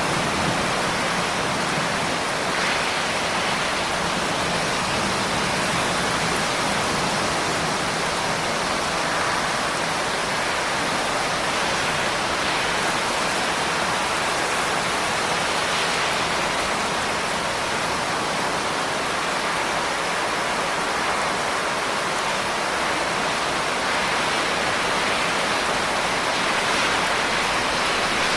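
Steady, even rain: a dense hiss of falling rain with no distinct drops standing out.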